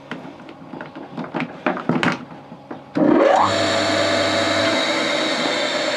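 A few light clicks and knocks, then about three seconds in an old electric motor switches on. Its pitch rises quickly as it runs up to speed, and it then runs on with a loud, steady hum.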